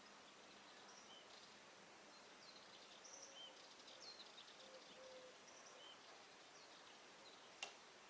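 Sparrows chirping faintly, short high calls scattered through the middle, with one sharp click near the end.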